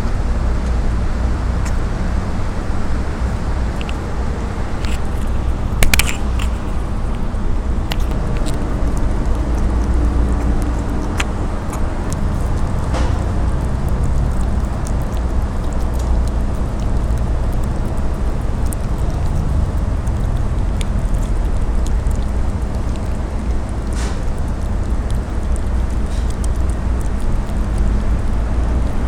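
Steady low rumble of outdoor background noise, with a few brief clicks, the loudest about six seconds in.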